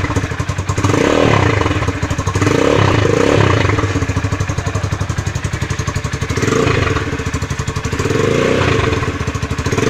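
Rusi Classic 250 motorcycle engine running through its modified stock muffler, drilled with holes to open it up. It idles with several throttle blips that rise and fall. The exhaust note is bigger and less muffled than the choked stock sound.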